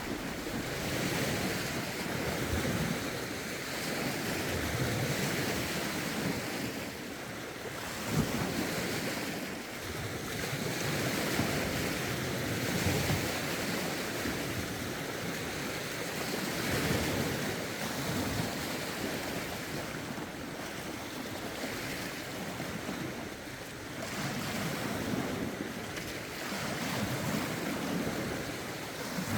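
Lake waves lapping and breaking against the shore, rising and falling in swells every few seconds, with rough wind buffeting the microphone.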